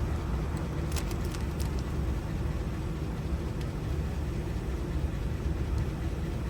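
Steady low rumble of a vehicle engine running, with a few light sharp clicks about a second in.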